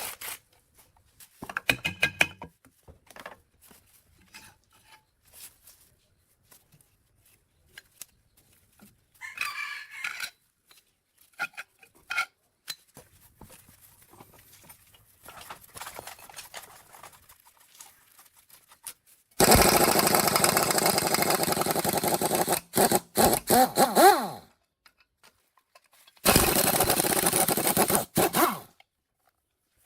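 Workshop sounds: scattered clinks and knocks of hand work on metal, then two loud bursts of a power tool or machine, the first about five seconds long and the second about two seconds.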